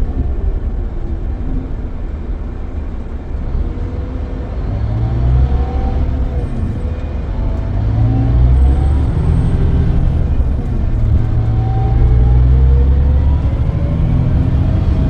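Scania K440EB coach underway, heard from on board: a low engine rumble, with engine tones that rise and fall several times as it accelerates and changes gear.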